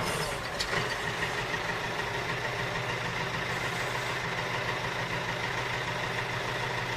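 Engine idling steadily, with a small click about half a second in.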